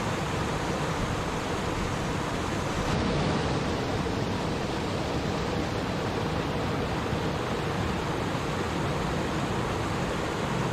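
Stream water rushing and babbling steadily, a continuous even wash of sound with a slight swell about three seconds in.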